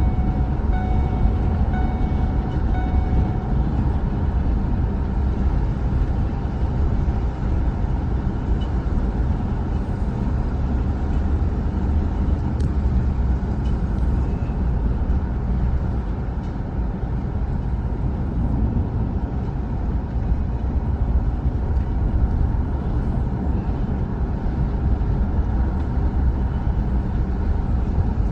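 Truck driving along: a steady low engine and road rumble. A short repeating beep sounds during the first few seconds.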